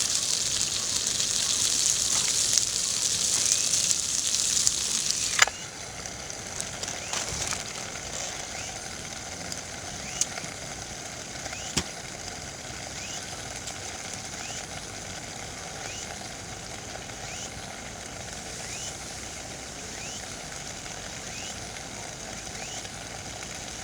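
Gyoza sizzling in a pan over a campfire: a loud, even hiss with scattered pops that cuts off suddenly about five seconds in. After that there are quieter outdoor surroundings, with an occasional crackle and a short rising chirp about once a second.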